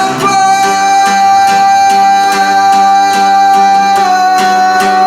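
Live song with strummed acoustic guitar. Over it one long high note is held, dipping slightly in pitch about four seconds in.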